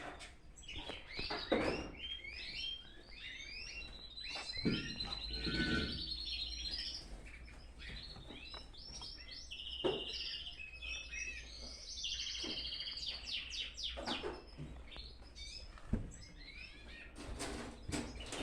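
Small birds chirping busily over and over, with a couple of sharp knocks and a low steady hum underneath.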